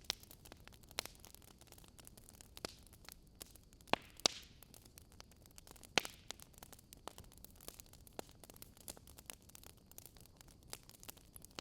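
Burning wood logs crackling, with irregular sharp pops and snaps over a soft steady hiss. The loudest pops come about four seconds in, twice in quick succession, and again near six seconds.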